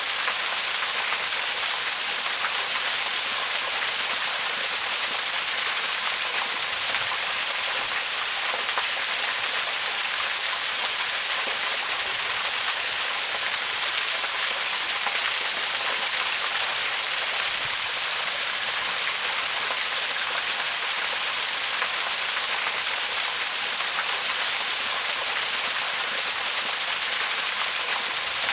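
Waterfall: a steady, unbroken rush of falling water, mostly high hiss with little low rumble.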